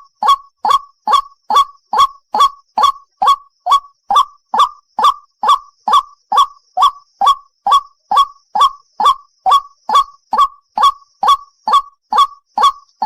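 White-breasted waterhen calling, a harsh 'ruak' note repeated evenly about twice a second, each note rising in pitch, with a brief pause about four seconds in.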